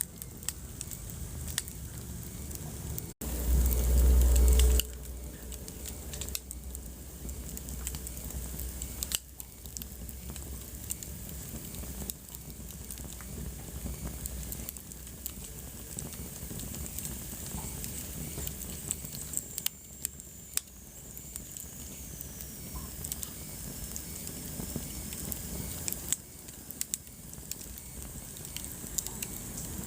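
Wood fire crackling in a fireplace, with many scattered sharp pops. A few seconds in, a short dropout is followed by a loud low rumble lasting about a second and a half. Later comes a faint high whistle that slowly falls in pitch.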